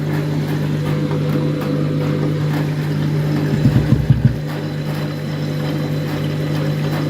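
Washing machine on its rinse stage, taking in water: a steady low hum with running water, and a few low thumps about halfway through.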